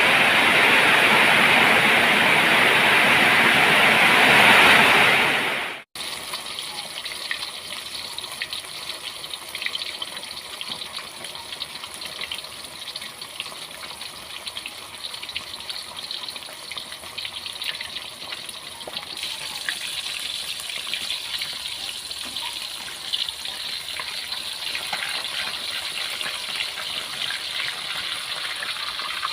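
Heavy rain falling as a loud steady rush. About six seconds in it cuts off abruptly and gives way to quieter rainfall with scattered drips and patter.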